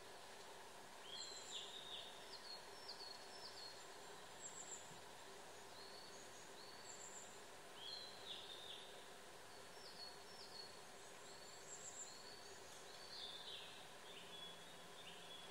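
Faint outdoor ambience with small birds singing short, high chirping phrases again and again, over a low steady background hum.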